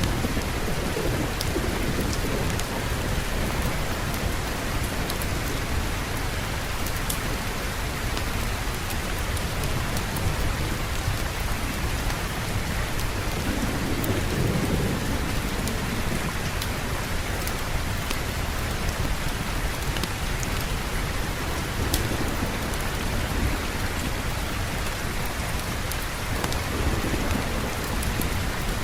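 Steady heavy rain with low rolls of distant thunder, the strongest about halfway through, and scattered small sharp ticks.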